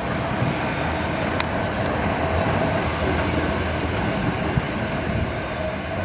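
Heritage electric tram running along the track: a steady rumble with a constant whine, and one sharp click about a second and a half in.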